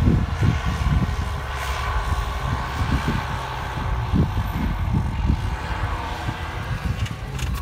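Tractor diesel engine running hard and steadily, with irregular low thumps, as the tractor works in deep mud where it is stuck.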